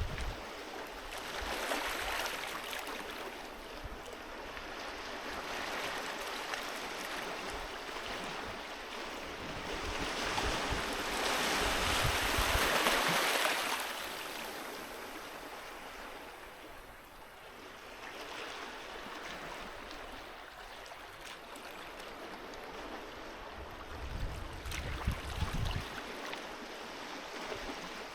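Sea waves washing onto the shore. The surf swells to its loudest about halfway through and then recedes, with a few low rumbling thumps near the end.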